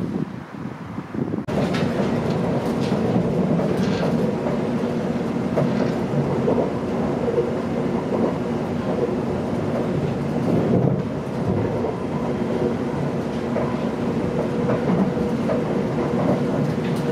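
A brief stretch of wind on the microphone, then about a second and a half in, the steady rumble of a passenger train running at speed, heard from on board, with wheels clicking over rail joints and pointwork at a junction.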